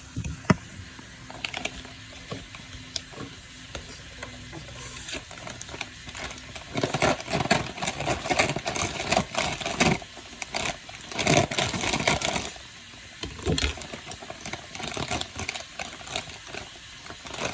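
Kitchen handling sounds: quick clicking and clattering of utensils and dishes in several dense runs, with a faint steady hum during the first few seconds that stops.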